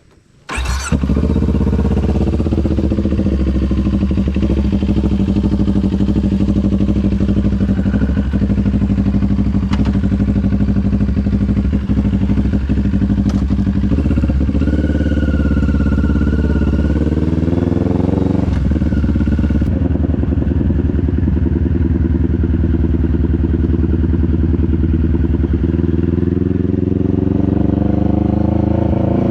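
CFMoto 400NK motorcycle's parallel-twin engine starting up abruptly about a second in, then running steadily. The engine speed dips and rises between about 14 and 19 seconds in and climbs again near the end.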